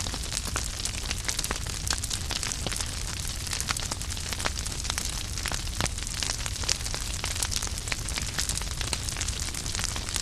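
Wood fire crackling in a fireplace: a dense, irregular run of sharp pops and snaps from burning logs over a steady low rumble of the flames.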